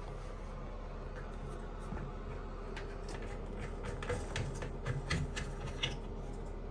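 Plastic toilet flush valve parts clicking and scraping as the valve's nut is threaded on by hand, a quick irregular string of small ticks thickening about halfway through, over a low steady hum.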